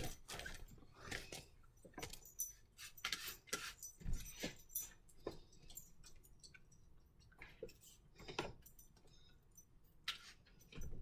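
Scattered light clinks and knocks of objects being handled and set down while a refrigerator is cleaned, coming irregularly a few times a second, with a slightly louder patch about four seconds in.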